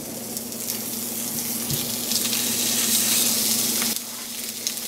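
Plant-based steaks sizzling in hot oil in a frying pan. The hiss swells about two seconds in, then drops off suddenly near the end.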